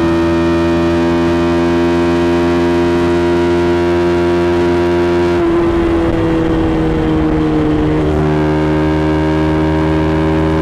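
KTM Duke 200's single-cylinder engine running hard at high, nearly steady revs, its note creeping slightly higher. About five seconds in, the note turns rough and noisy for a couple of seconds while its pitch slides down, then settles steady again a little lower.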